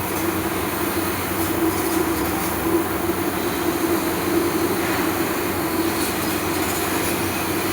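CNC laser cutting machine running: a steady mechanical noise with a constant hum.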